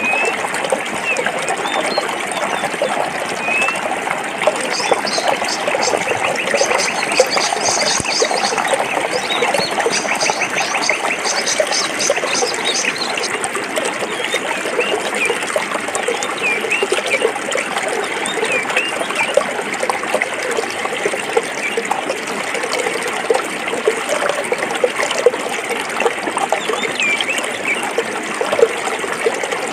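Forest stream flowing and trickling steadily over rocks. Small birds chirp here and there over the water, and a high, rapid trill sounds for several seconds near the start.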